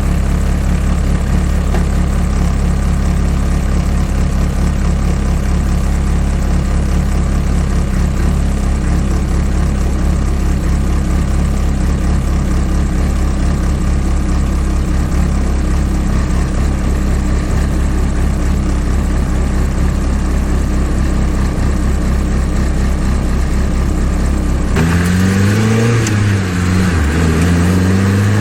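Freshly built, not-yet-tuned Honda K24-block, K20-head four-cylinder engine idling steadily. Near the end the car pulls away: the engine pitch rises, drops at a gear change, and rises again.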